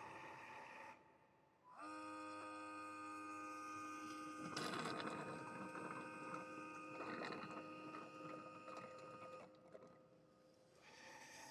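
Robot vacuum base station running its self-cleaning and drying cycle. A steady whirring cuts out about a second in; then a motor whine starts with a short upward glide, holds steady with a couple of rougher rushing spells, and stops about two seconds before the end, when a steady whirring starts again.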